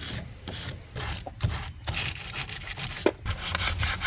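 A battery terminal cleaner scraping the lead of a battery cable end in quick, irregular strokes, cleaning off corrosion. A low hum grows stronger about three seconds in.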